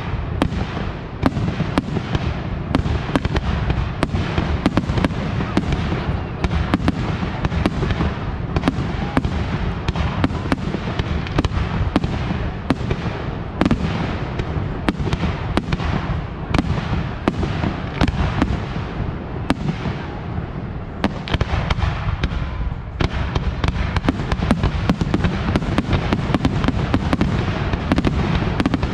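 Aerial fireworks shells launching and bursting in rapid succession: many sharp bangs and crackles close together, over a steady low rumble.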